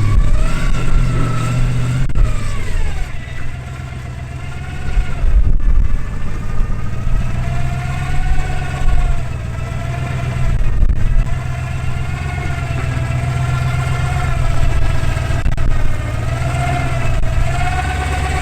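Off-road truck engine revving up and down in repeated bursts as the vehicle bumps its way over a rock obstacle, easing off briefly about four seconds in.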